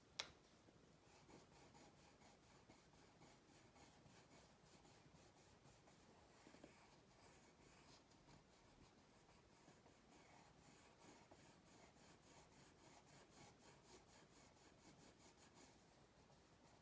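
Faint, rapid scratching of a drawing tool on folded paper as features are drawn. It is preceded by a single sharp click at the very start.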